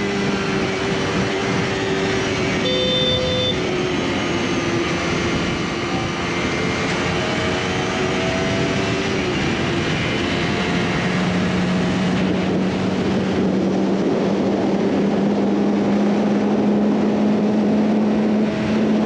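KTM RC 200's single-cylinder engine, fitted with an aftermarket exhaust, droning steadily at high revs in sixth gear at its top speed, with wind rush over it. A short beep sounds about three seconds in.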